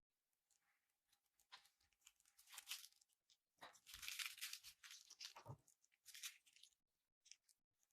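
Slime being handled and squished: quiet, irregular bursts of crackling, crinkly noise, the longest and loudest a little past the middle.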